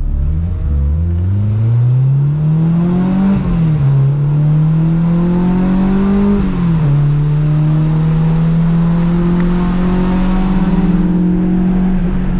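Honda Civic's four-cylinder engine accelerating hard through the gears: revs climb, fall sharply at an upshift about three and a half seconds in, climb again, fall at a second upshift near seven seconds, then hold fairly steady.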